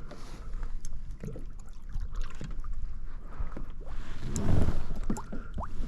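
Water sloshing and lapping against a fishing kayak, with wind rumbling on the microphone and scattered small knocks and clicks; a louder slosh comes about four and a half seconds in.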